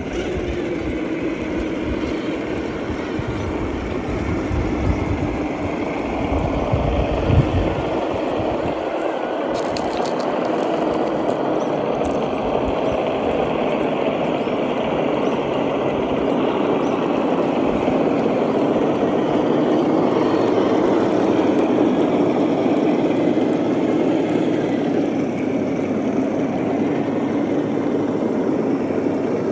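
Electric motors and geared drivetrains of RC trail trucks whirring steadily as they crawl over rocks.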